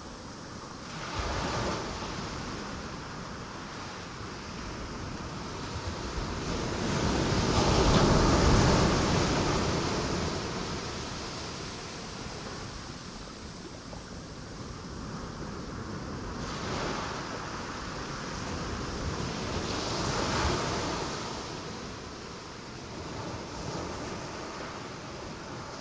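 Ocean waves breaking on rocks, as a steady wash of surf that swells into crashes. The biggest crash comes about eight seconds in, with smaller ones around a second and a half, seventeen, twenty and twenty-three seconds in.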